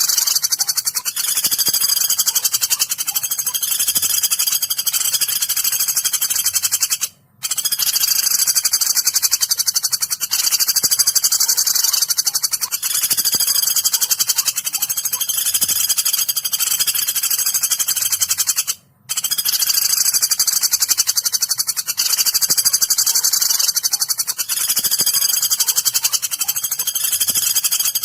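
Woodpecker calls (the pelatuk used as a masteran for songbirds) played as a recording: a continuous, rapid, high-pitched shrill chatter, breaking off briefly twice.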